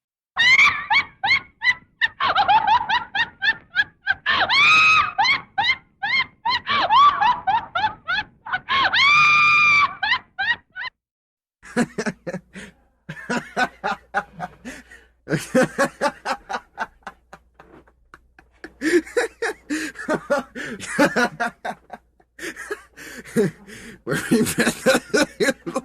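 Laughter sound effects, two in a row: a very high-pitched laugh in quick rapid pulses for about the first eleven seconds, then, after a brief pause, a lower-pitched laugh in repeated bursts.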